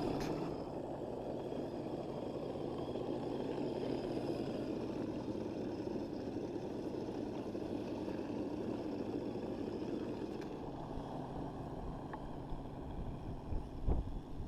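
A 1/6-scale RocHobby Willys Jeep RC model driving on oversized monster truck tires: a steady electric motor and gearbox drone with a faint high whine and the rumble of the tires, easing off a little later on, with a few knocks near the end.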